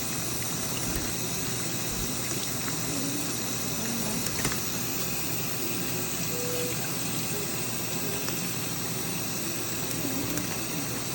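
Water running steadily from a tap, an even rushing hiss with no change in level.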